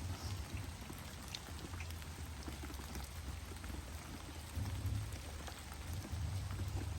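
Light rain falling: a faint steady hiss with scattered small drop ticks, over a low rumble.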